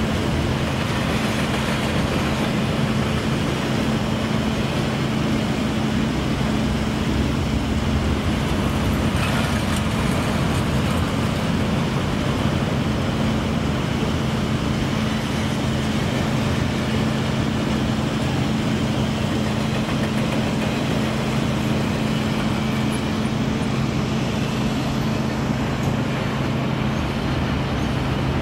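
CSX double-stack container freight train rolling steadily past, its cars running on the rails, with a steady low hum under the rail noise.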